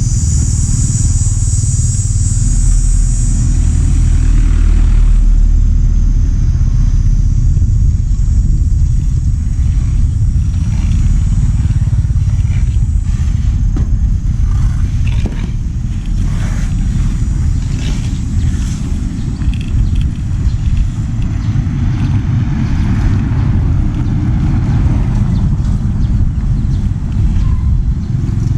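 A road vehicle on the move, with a steady low rumble throughout. A few thin high steady tones are heard in the first few seconds and then fade out.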